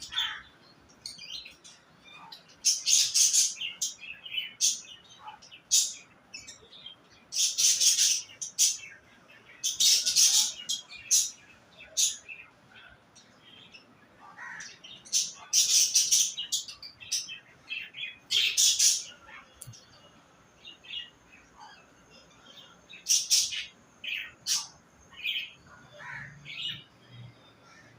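Budgerigars chattering with small high chirps, broken every few seconds by loud harsh screeches.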